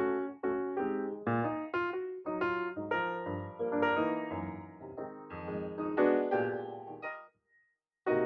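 Background piano music: a melody of struck notes, each decaying, with a short pause near the end.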